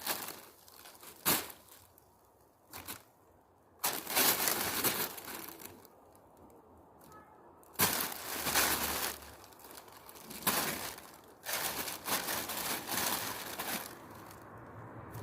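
Crinkly material rustling and crackling in irregular bursts as cats play with it, several seconds of steady crinkling at a time with short quiet gaps between.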